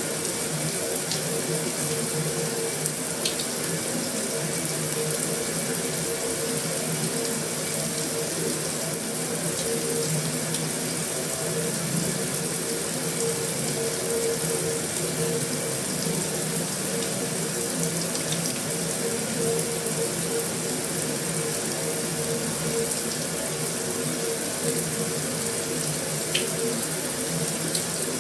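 Steady heavy rain on a metal roof: an even, unbroken hiss with a few faint sharper ticks.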